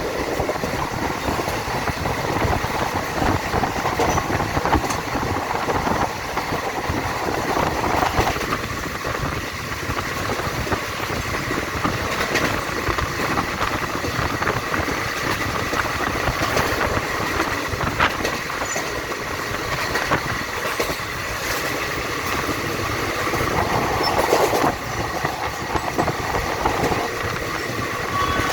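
Indian Railways train running at speed: a steady rumble of wheels on the rails with scattered sharp clicks.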